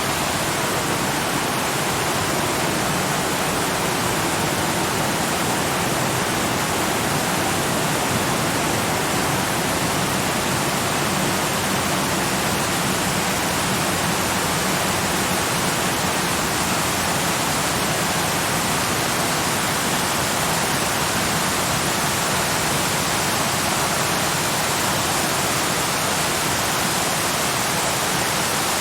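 Steady, unbroken rush of falling water from a waterfall, even in level throughout.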